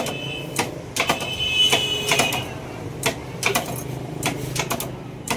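Irregular clicks and knocks, several a second and uneven, over a steady low hum, with a brief high squeak-like tone about a second in.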